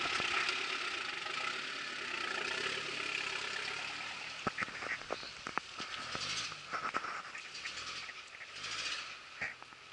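Off-road 4x4's engine running as it crawls through a mud pit, fading over the first few seconds, followed by a scattering of sharp clicks and knocks.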